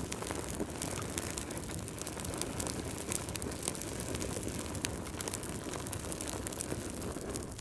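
Fireplace fire crackling: a steady low rush of flames with frequent sharp pops and snaps at irregular intervals.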